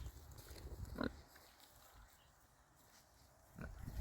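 Pigs grunting faintly: a short grunt about a second in and more grunts near the end.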